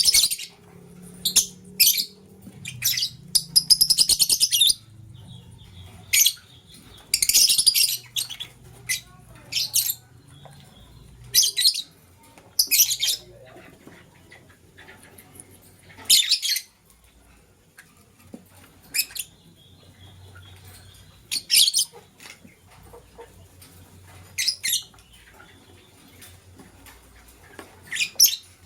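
Lovebirds chirping: short, shrill, high calls at irregular intervals, with two longer chattering runs about four and seven seconds in.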